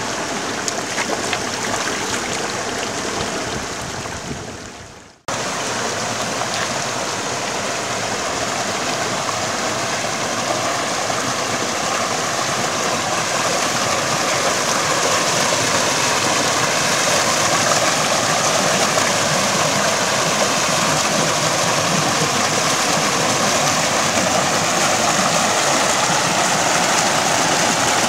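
A shallow rocky stream rushing over small cascades, giving a steady hiss of running water. The sound fades and drops out for a moment about five seconds in, then comes back unchanged.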